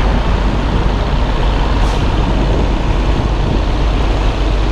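Semi truck's diesel engine running steadily at low speed while the tractor-trailer is backed, heard from inside the cab as a constant low rumble. A short faint hiss comes about two seconds in.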